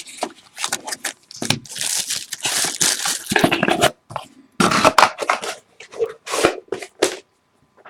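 Trading card pack wrapper being torn open and crinkled by hand: a run of irregular tearing and rustling bursts that stops about a second before the end.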